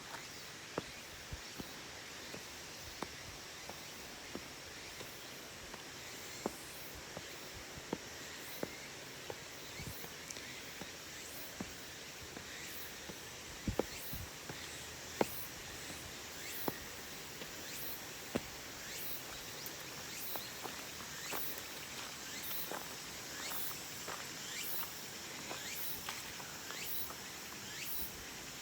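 Insects chirping outdoors: a steady high trill, joined about halfway through by evenly repeated high chirps, roughly one to two a second. Scattered sharp clicks sound over a steady background hiss.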